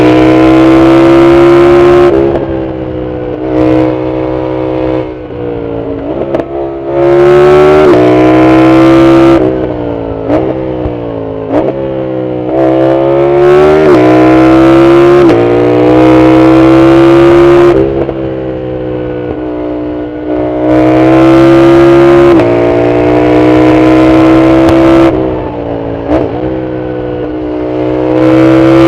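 Yamaha MT-07's parallel-twin engine through a full Arrow exhaust, accelerating hard under load, its pitch climbing and dropping back with each gear change. Several stretches of easing off the throttle are quieter.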